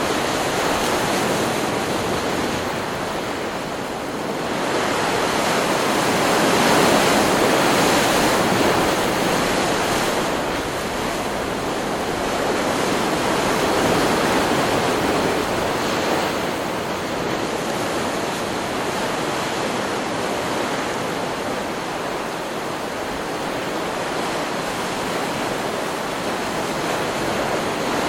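Ocean surf from a stock beach recording: waves breaking and washing ashore in a continuous rush. It swells louder about five seconds in and again around fourteen seconds.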